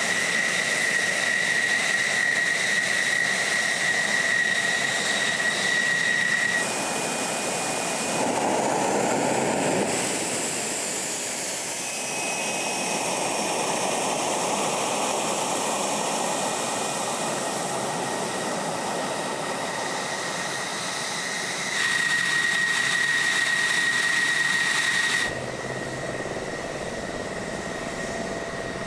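F-16 fighter jet engine noise with a steady high whine. The sound changes abruptly several times, as separate clips cut from one to the next.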